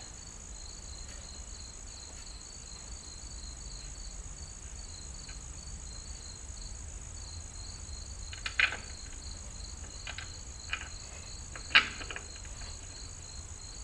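Crickets chirping in a steady pulsing trill, with a few short knocks and clanks from a tire being worked onto its rim in the second half, one sharper and louder than the rest near the end.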